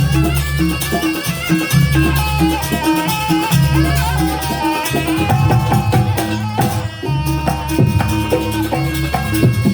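Live Banyuwangi-style traditional ensemble music: a pitched melody over a steady, repeating low percussion beat.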